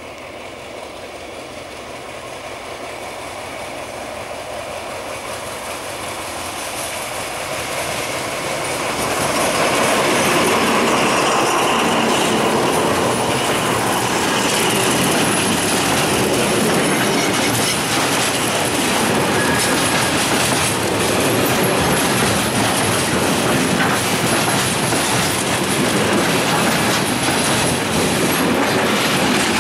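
Freight train rolling past close by, loud and steady after building up over the first ten seconds as it approaches. Its loaded flat wagons clatter rapidly over the rail joints, with squealing from the wheels.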